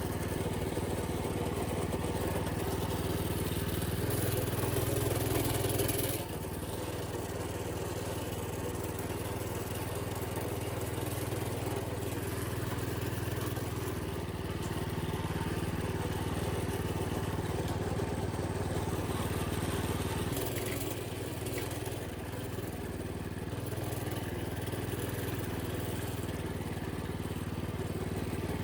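Minibike's small engine running steadily under way, with its revs and loudness shifting a little. It is louder for a couple of seconds about four seconds in, then eases back.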